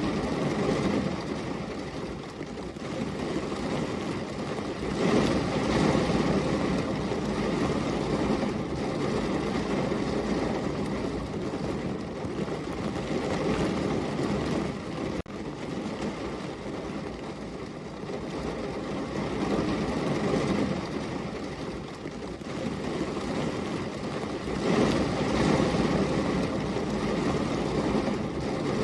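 Heavy rain falling, a dense, steady hiss that swells and eases every few seconds.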